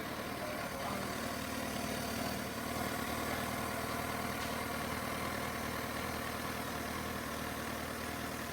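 Suzuki Hayabusa's inline-four engine idling steadily.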